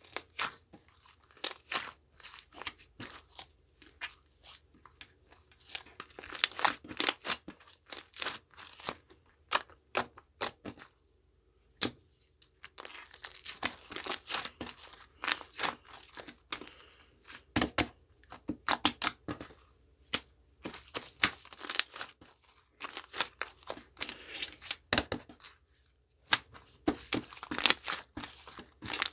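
Irregular crinkling and crackling, like paper or plastic being handled, torn and crumpled in bursts, with a short pause a little after the middle.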